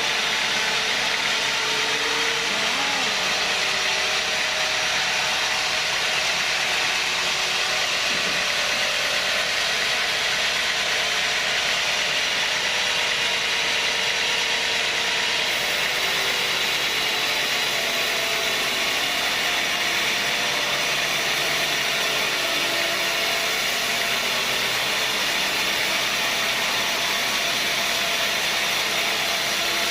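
Sawmill saw machinery running steadily at an even level, with no separate cuts or strikes.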